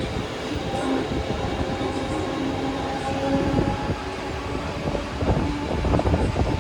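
A train running on the track, a steady rumble, with wheel clatter over rail joints picking up about five seconds in.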